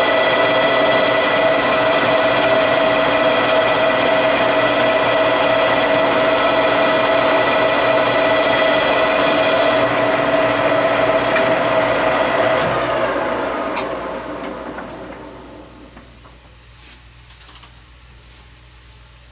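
Metal lathe running steadily under power, its motor and spindle giving a constant whine. About twelve seconds in it is switched off and spins down, the pitch falling away over a few seconds, followed by a few light clicks.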